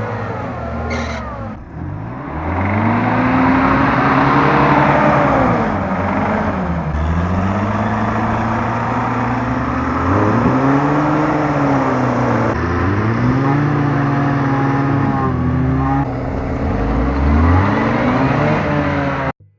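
Lada Niva 4x4 engine revving up and dropping back several times over rough ground. The sound cuts off abruptly just before the end.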